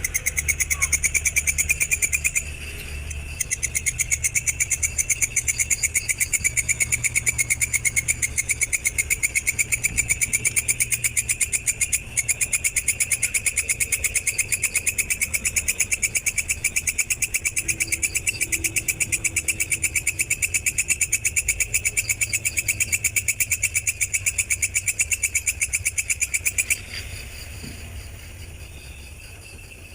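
A stridulating insect's rapid, evenly pulsed trill, many pulses a second, breaking off briefly about two and a half seconds in and stopping about 27 seconds in, after which a fainter trill carries on.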